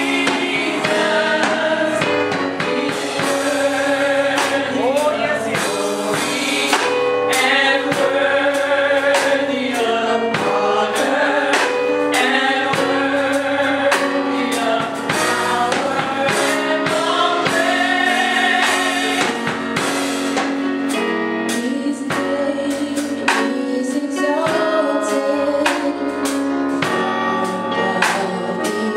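Gospel choir singing with a band of keyboard and drum kit, a steady beat throughout.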